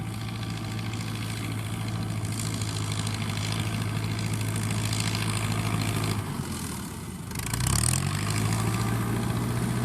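FIAT 640 tractor's four-cylinder diesel engine running steadily while working a straw baler. About six seconds in the engine note sinks and fades, then climbs back up a second or so later and runs on steadily.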